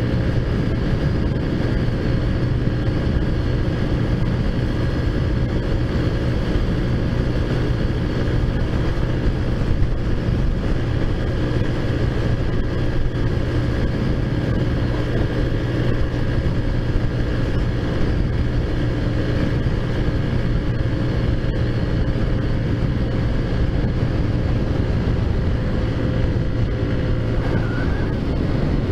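Taotao Zummer scooter's modified 50cc four-stroke engine running at a steady pitch while riding at constant speed, over a continuous rush of road and wind noise.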